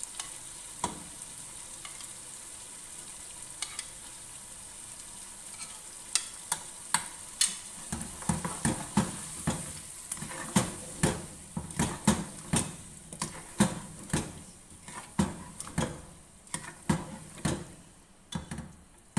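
A masala of meat, potatoes and freshly added yogurt sizzles steadily in a non-stick pot. From about six seconds in, a spatula scrapes and knocks against the pot about twice a second as the mixture is stirred and fried. The sizzle fades near the end.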